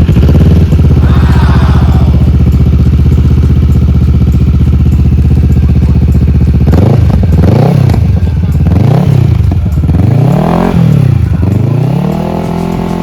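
Kawasaki ER-6f's 649 cc parallel-twin engine idling steadily just after starting, then revved three times and settling back to idle near the end. It is running again after failing to start since the night before.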